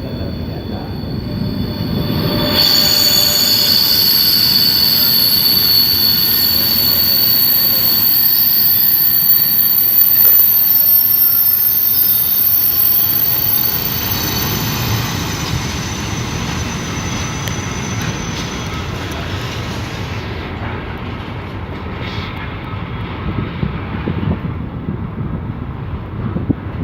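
A train passing close by. About two and a half seconds in, steady high-pitched tones come in over a rumbling noise. It stays loudest until about halfway through, then fades to a lower rumble as the high tones die away.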